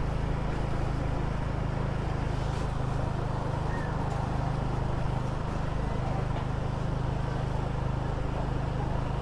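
Small motor scooter's engine running steadily while riding slowly, a constant low hum with road and wind noise.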